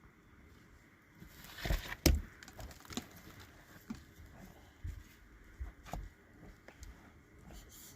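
Scattered knocks and thumps, with a loud cluster about two seconds in and a few lighter knocks after it.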